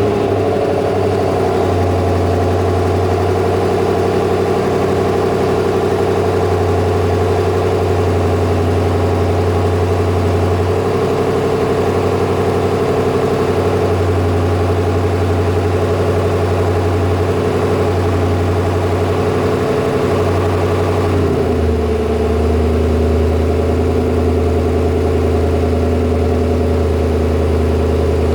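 BMW M850i's 4.4-litre twin-turbo V8 running at a steady fast idle just after a cold start. About 21 seconds in, the idle drops to a lower, steady speed as it settles.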